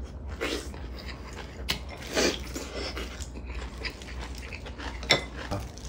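Close-up eating sounds: a person chewing and smacking on a mouthful of braised kimchi and mackerel, in irregular wet bursts, with a couple of sharp clicks, the sharpest near the end.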